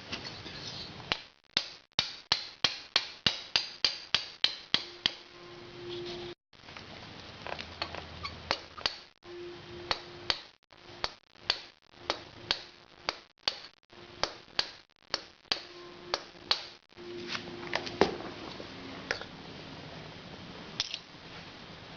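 Light hammer taps on metal, driving a freezer-shrunk gudgeon pin into a piston. A quick run of about four taps a second comes first, then slower, uneven taps, with one harder strike near the end.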